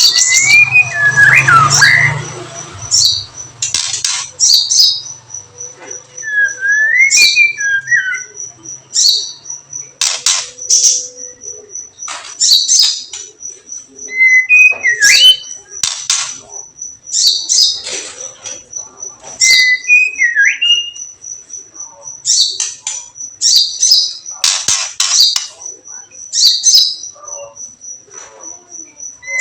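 Songbird rattle calls (kretekan) in short high bursts, repeated every second or two, mixed with brief whistled phrases that rise and fall, over a fast, even, high ticking trill. A track of this kind is played to provoke caged songbirds into singing.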